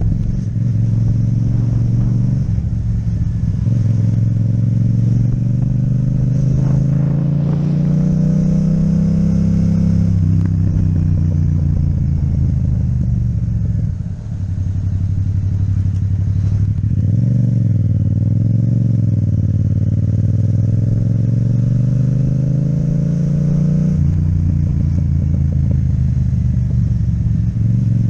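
Yamaha MT-07 parallel-twin engine through an Akrapovic exhaust, pulling up through the revs with a drop in pitch at each upshift. About halfway it eases off briefly, then pulls again with another shift near the end.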